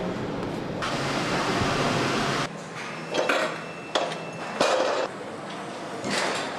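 Factory assembly-hall noise: a steady machinery hum for about the first two and a half seconds, then a sudden drop to a quieter background with several sharp metallic clinks and knocks of parts and tools being handled.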